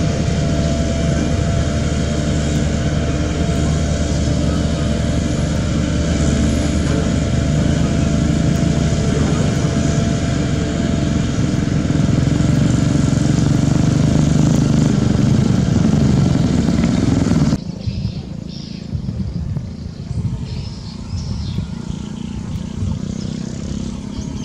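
Heavy road-construction machine's engine running steadily at a constant speed, strongest in a low rumble. About three-quarters of the way through it cuts abruptly to a quieter, rougher machine rumble with scattered rattling.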